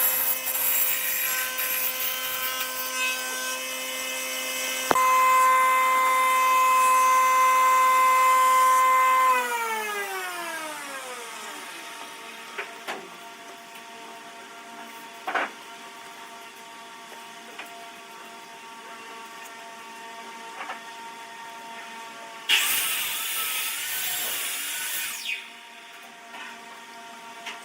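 An electric woodworking power tool's motor runs steadily, gets louder about five seconds in, then is switched off and winds down with a falling pitch. Later come a few light knocks and a short burst of rough, hissing noise.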